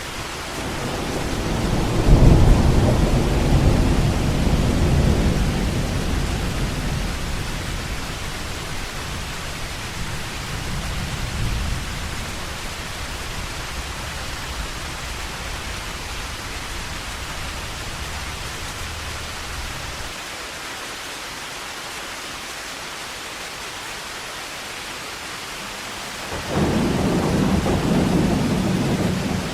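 Heavy rain falling steadily, with a deep rumble of thunder that swells about two seconds in and slowly dies away, and another peal of thunder breaking in suddenly near the end.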